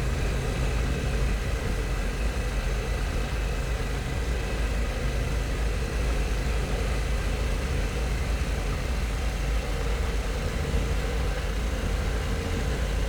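Harley-Davidson Pan America's 1250 cc V-twin engine running steadily at cruise, with wind rushing past a helmet-mounted microphone.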